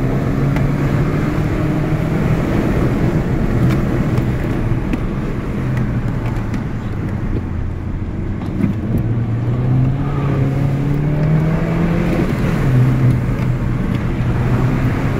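Remapped Mini Cooper S engine pulling hard, its note climbing and dropping several times as the car accelerates and eases off, over steady road and tyre noise heard from inside the cabin.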